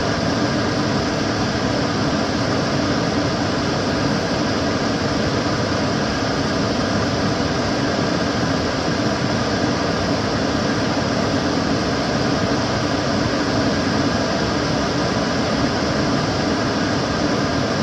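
Kitchen cooker hood extractor fan running steadily: an even rush of air with a low hum.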